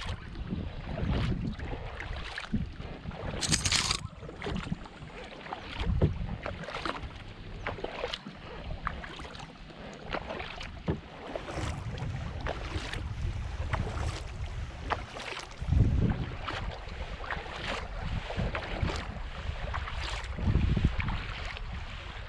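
Kayak paddle strokes splashing and dripping on calm water, irregular and continuous, with one sharper hissing splash about three and a half seconds in. A steady low rumble of wind buffets the microphone underneath.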